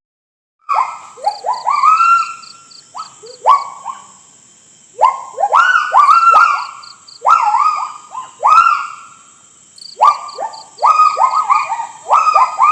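Monkey calling: quick series of short rising hoots in three bouts with brief pauses between, over a steady high insect-like buzz with small chirps.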